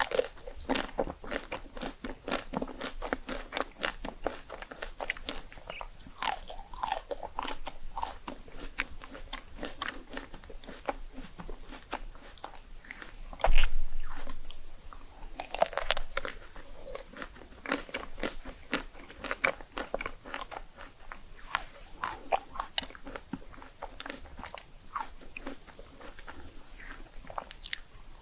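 Close-miked crunching and chewing of crisp rice cakes, a dense run of crackly bites. About halfway through there is one loud bump.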